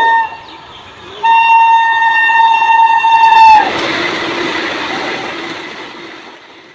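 Indian Railways locomotive horn: a short blast, then a long steady blast of about two and a half seconds whose pitch dips as it cuts off. The rumble of the passing train follows and fades away.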